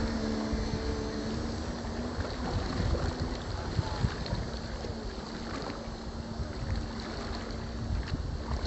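Radio-controlled model boat's motor running with a steady hum, over wind buffeting the microphone and rushing water. Several tones in the hum thin to one after a couple of seconds.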